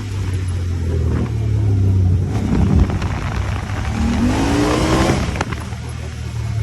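Honda Talon 1000R side-by-side's parallel-twin engine running, then revving up with a rising pitch about four seconds in and dropping off suddenly a moment later.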